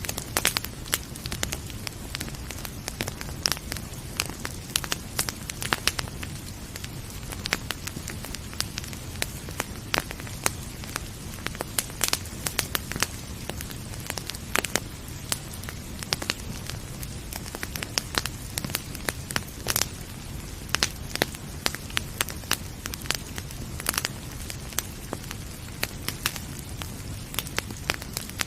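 Fireplace fire crackling, with frequent irregular sharp pops and snaps over a low steady rumble of the flames.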